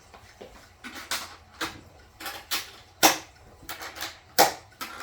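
Irregular sharp clicks and knocks from the parts of a wooden observation beehive being handled, with two louder knocks about three and four and a half seconds in.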